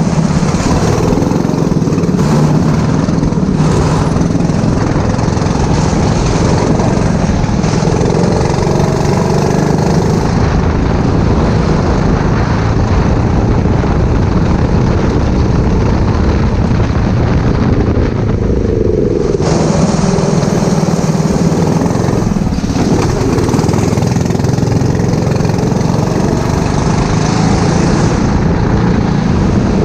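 Racing go-kart's four-stroke engine running hard on track, its note dropping and climbing again a few times through corners.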